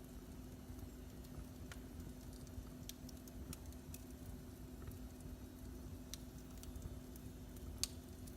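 Wood fire burning in a fireplace, faint, with scattered sharp crackles and pops at irregular intervals, the loudest near the end, over a steady low hum.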